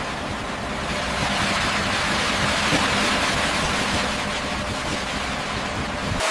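Heavy construction machinery engine running steadily under a broad rushing noise, cut off suddenly at the very end.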